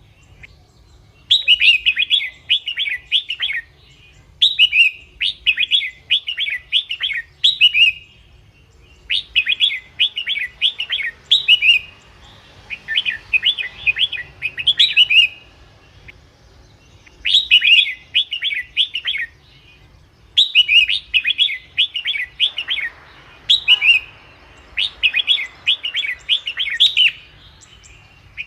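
Red-whiskered bulbul song: phrases of quick, bright chirping notes, each one to two seconds long, repeated over and over with short pauses between. A faint low hum runs underneath.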